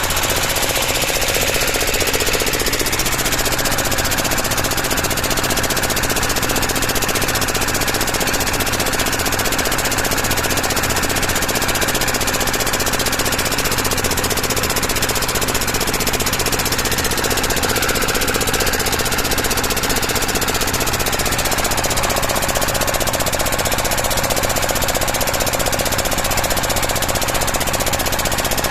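Motorboat engine running steadily at a constant speed, loud and close.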